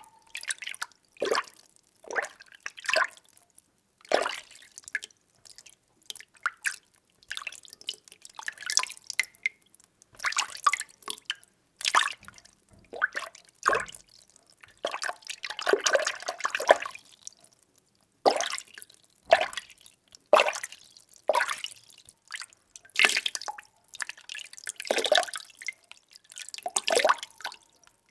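Water being stirred in a container: irregular sloshing and splashing strokes about once a second with short quiet gaps, busier for a couple of seconds near the middle.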